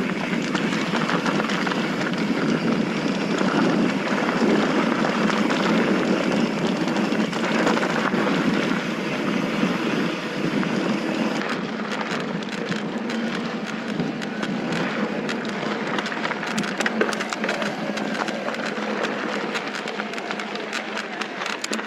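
Mountain bike riding fast over a loose dirt trail: a steady rush of tyre and wind noise with many small crunches and clatters from gravel and rocks, the clatter thicker in the second half.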